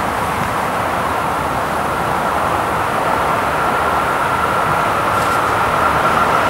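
Electric commuter train approaching on curved track, its running noise growing steadily louder. A steady high-pitched whine comes up from about halfway through and strengthens toward the end.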